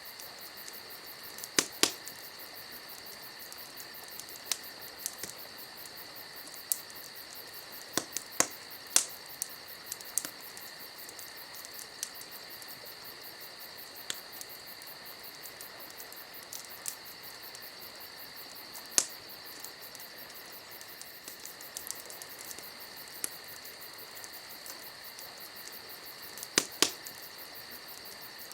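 Wood campfire crackling, with sharp pops at irregular moments, the loudest about two seconds in, around nine and nineteen seconds, and near the end. Crickets chirp steadily and high-pitched underneath.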